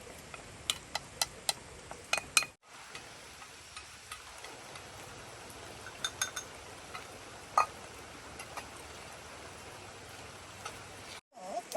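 Scattered light clicks and clinks of dishes and utensils being handled, one louder ringing clink in the middle, over a steady faint hiss.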